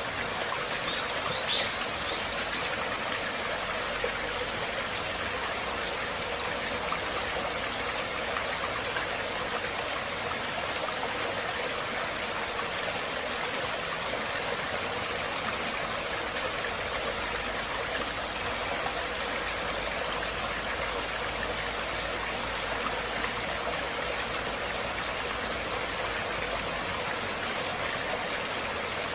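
Running water of a stream, a steady rushing burble. A few brief high chirps come about a second and a half in.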